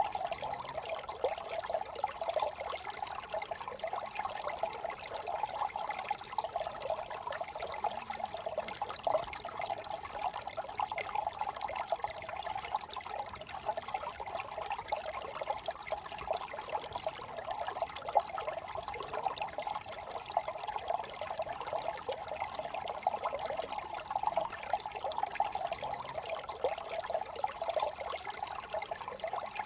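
A small brook trickling and burbling steadily over stones, with a fast flickering babble.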